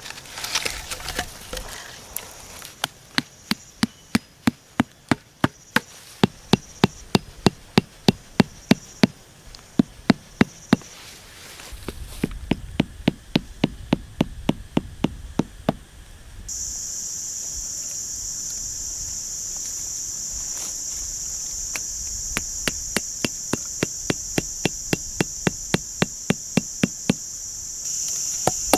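Insects buzzing in a steady high drone that grows louder a little past halfway. Over it runs a regular series of sharp knocks, about two a second.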